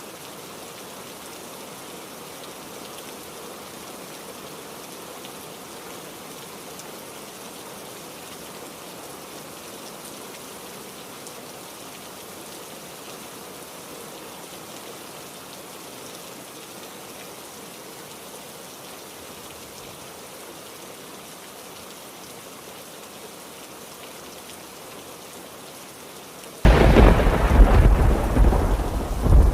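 Heavy rain falling steadily. Near the end a loud clap of thunder breaks in suddenly and rumbles on.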